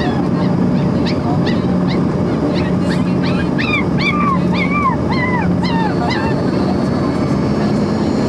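Steady loud drone of an Embraer 145 regional jet's engines and airflow inside the cabin, with a low steady hum. Over it, a quick series of short high chirps, rising then falling, comes several times a second and dies away about six seconds in.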